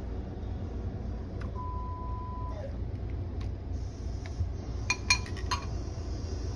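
Light clicks and clinks of kitchen handling over a steady low hum, with one short steady beep under a second long about a second and a half in, and a quick run of clinks about five seconds in.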